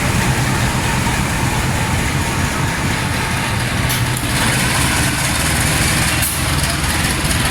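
Heavy engine idling with a steady low hum.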